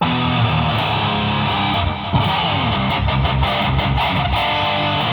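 Guitar played loud through a Fender Bassman 200 amp, with a growling bottom end and strummed, compressed notes. It starts abruptly, and the top end stops short at about 4 kHz.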